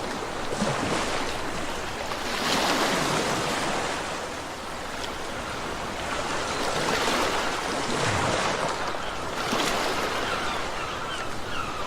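Ocean waves washing onto a shore, the surf swelling and falling back every few seconds.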